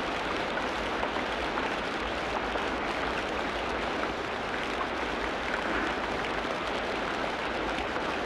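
Steady heavy rain in a tropical rainforest: an even, unbroken hiss of dense rainfall with no single drop, bird or insect standing out.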